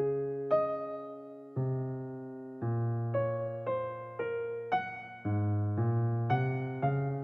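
Background music: slow, gentle solo piano, single notes and chords struck about every half second to a second, each ringing and fading.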